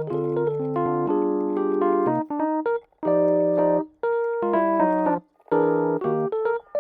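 Background piano music: chords held for a second or so at a time, broken off by short pauses between phrases.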